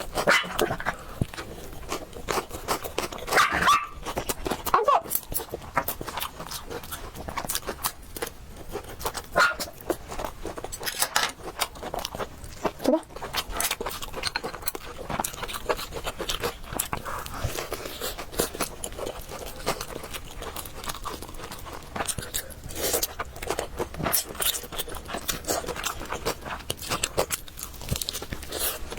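Close-miked eating of spicy noodles: steady wet chewing, lip smacks and slurping, made of many short clicks. A few brief squeaky, pitched sounds come in the first few seconds.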